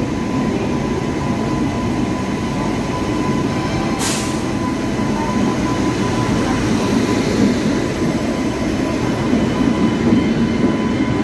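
An Indian Railways electric locomotive and its coaches rolling slowly into a station platform, with a loud, steady rumble of wheels on rail. There is a brief sharp burst of noise about four seconds in, and a thin steady high tone from the wheels.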